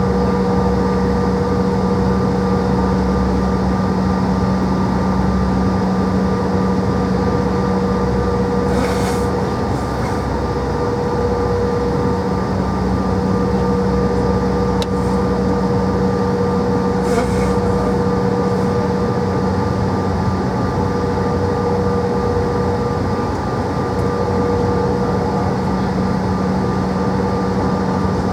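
Cabin noise of a Bombardier CRJ700 regional jet: its rear-mounted turbofan engines run with a steady drone carrying several steady tones over a rushing hiss. A faint brief rattle comes twice along the way.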